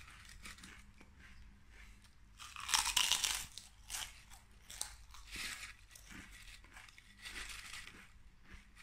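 A person chewing potato chips with the mouth close to the microphone: a run of crisp crunches, loudest about three seconds in.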